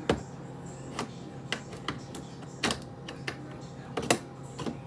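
Bottles and food containers knocking and clicking against each other and the shelves as they are moved around in a refrigerator: about eight sharp, uneven knocks over a faint steady hum.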